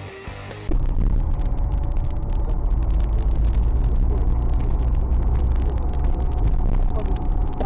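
Loud, steady low rumble of a car driving, engine and road noise with no clear tones; a snatch of music cuts off suddenly under a second in.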